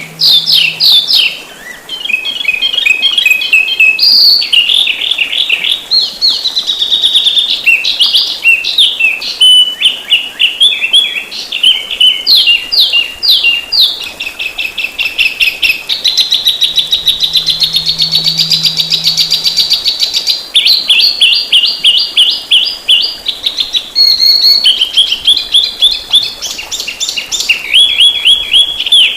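A songbird's fast, dense song: rapid runs of chirps and trills that switch to a new phrase every second or two, with hardly a pause. This is the quick "isian" fill-in material used to tutor pet songbirds.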